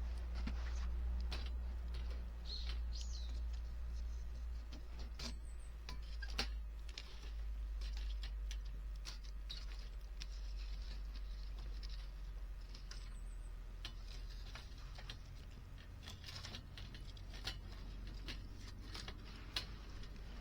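Wood fire crackling in a V-shaped compact grill fire stand: irregular sharp pops and snaps over a low steady rumble. A bird chirps briefly about three seconds in.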